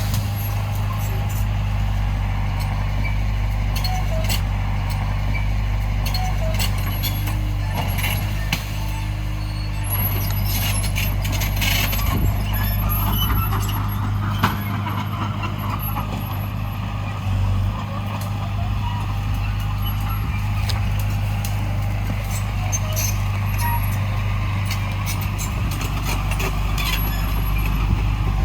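Heavy diesel earthmoving machinery running steadily, a low engine drone with scattered clicks and knocks.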